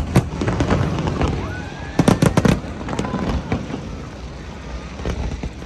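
Fireworks going off: loud bangs at the start, then a rapid cluster of bangs about two seconds in, with crackling and rumbling echo between and quieter pops after.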